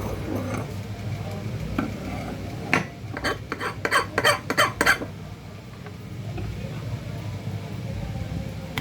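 A quick run of about nine light clicks and clinks of small hard objects being handled, starting about three seconds in, over a steady low hum.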